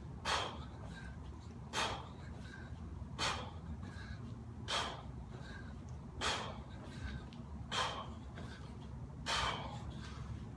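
A man breathing out hard and sharply, about once every second and a half, seven times, each breath paced with a rep of heavy clean and presses: breathing under exertion in the middle of a high-intensity interval.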